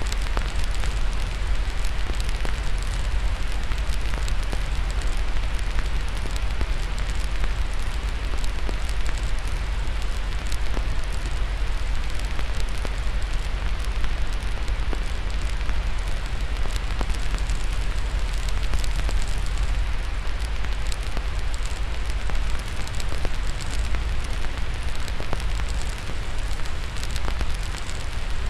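Steady white-noise hiss layered with a crackling fire, dense small pops and snaps scattered throughout, over a deep low rumble.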